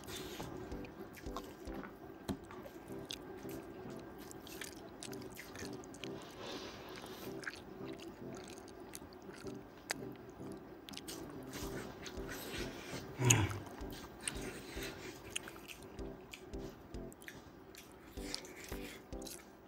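A person chewing and biting food close to the microphone: wet mouth noises with small, uneven clicks. One louder low sound stands out about two-thirds of the way through.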